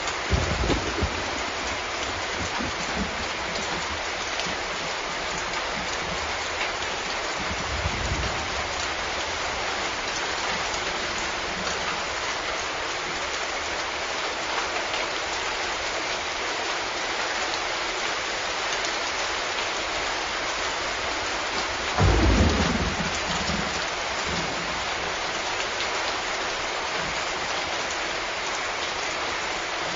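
Steady heavy rain falling, with rolls of thunder: one just after the start, a faint one about 8 seconds in, and a louder one about 22 seconds in.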